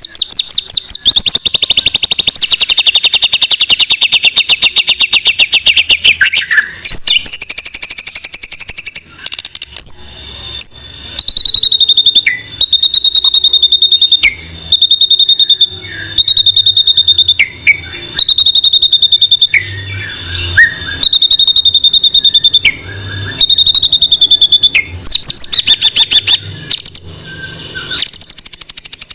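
White-rumped shama (murai batu) singing loudly: a long, rapid, high trill for the first several seconds, then a run of short rattling phrases repeated about every two seconds.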